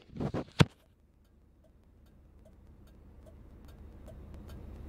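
Knocks and a sharp click as the camera is set down on the dashboard, then the 1975 Cadillac Sedan DeVille's 500 cu in V8 idling low with a slight miss at idle. A steady ticking runs over the idle, about two ticks a second.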